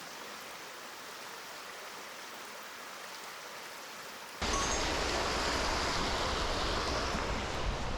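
Steady rushing of flowing river water. About four and a half seconds in it jumps suddenly louder, with a deeper rumble added.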